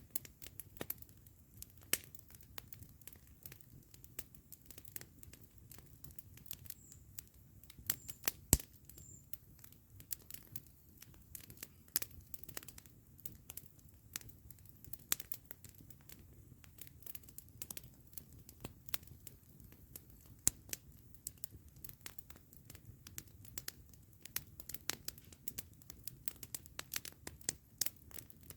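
Campfire crackling: a dense, irregular run of sharp pops and snaps from burning wood, with one much louder pop about eight and a half seconds in.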